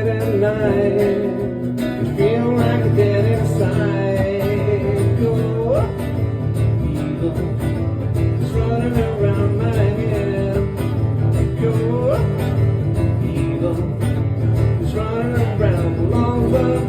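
Live acoustic country-style music: an instrumental break with acoustic guitar accompaniment under a lead line whose notes slide up steeply now and then.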